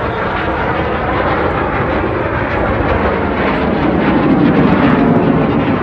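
Jet noise from BAE Hawk T1 aerobatic jets flying past, growing louder over the first four seconds or so.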